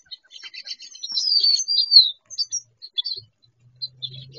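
Small birds chirping with rapid chip notes, with one loud, slurred whistle that falls in pitch about a second in. A faint low hum comes in near the end.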